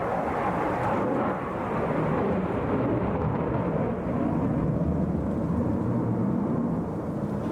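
Jet noise from a twin-engined Su-57 fighter flying an air-show display, heard as a steady low rumble.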